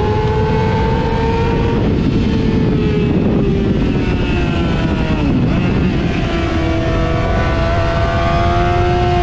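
Motorcycle engine running at high revs under wind noise, with a drop in pitch about five seconds in, like a gear change, after which the revs climb slowly again.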